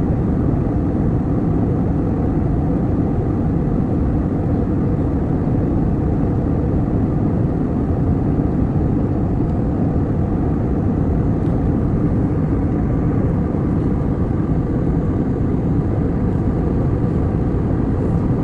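Steady airliner cabin noise in flight: the even, low rush of engines and airflow heard from inside the cabin.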